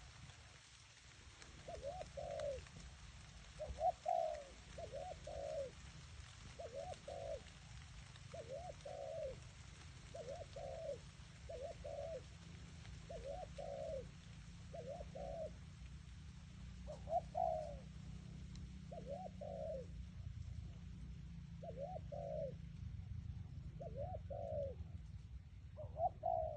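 Doves cooing back and forth, short coos repeating every one to two seconds, over a steady low rumble.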